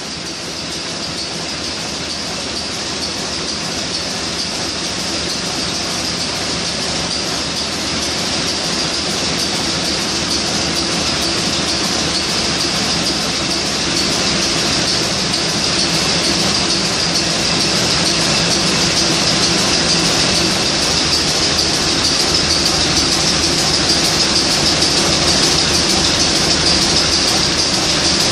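Niigata 750 kW marine diesel main engine running steadily, a dense mechanical din with a strong high hiss over a low engine drone, growing gradually louder.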